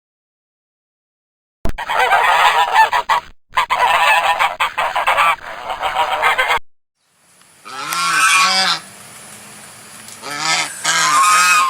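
Birds honking: a dense stretch of many overlapping calls, then after a pause a few separate honks in two short groups.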